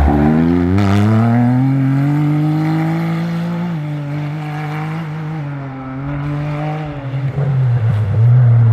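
Rally-raid car engine accelerating hard, its pitch rising for about three seconds, then dropping as it shifts up and pulling on. Near the end the engine grows loud again.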